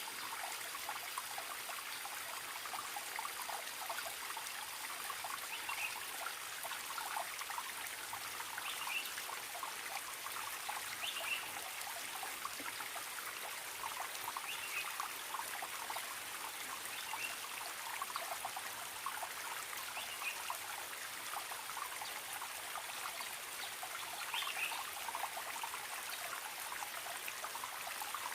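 Forest stream trickling steadily, with a bird's short call repeated every few seconds.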